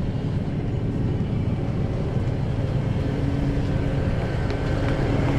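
A truck engine running steadily with a low rumble. A steady hum joins it about three seconds in, and the sound grows slightly louder.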